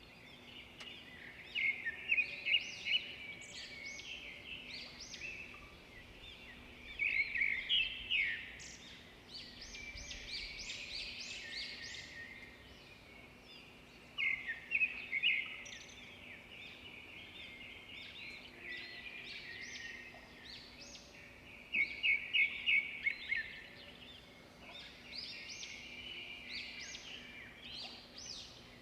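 Several songbirds singing and chirping, with calls overlapping and loud bursts of quick repeated chirps every several seconds.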